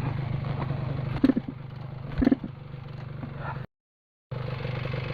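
A two-stroke dirt-vehicle engine idles steadily, with two sharp clattering knocks about a second apart. Near the middle the sound cuts out completely for about half a second, then the engine is heard again.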